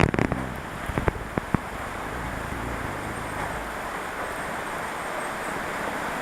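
Steady hiss of rain, with a few sharp knocks in the first second and a half.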